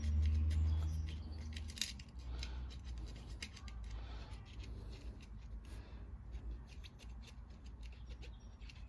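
Small metallic clicks and scratches of a carburettor tip cleaner being worked through a lawnmower carburettor's jet, with a low hum that stops about two seconds in.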